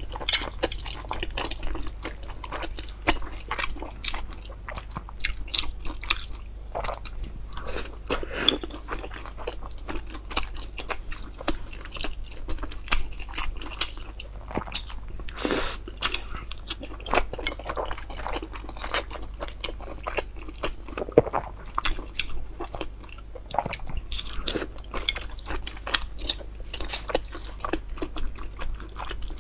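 Close-miked chewing and biting of soup dumplings: a dense, irregular run of quick mouth clicks over a steady low hum, with one longer noisy sound about halfway through.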